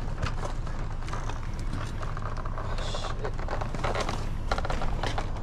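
Hand truck loaded with cases of soft drinks rolling over pavement: a steady low rumble with scattered clicks and rattles.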